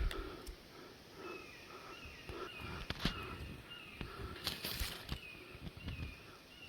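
Outdoor birdsong: a bird repeating a short, slightly falling chirp about three times a second, starting a little over a second in, with a few soft knocks or rustles mixed in.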